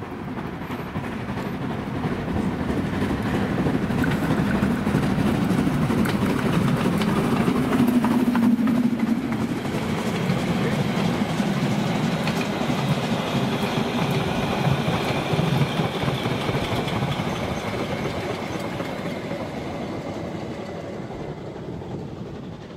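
A train passing by, its rumble and clatter building to a peak about eight seconds in and then slowly fading away, with a high steady tone sounding over it through the middle.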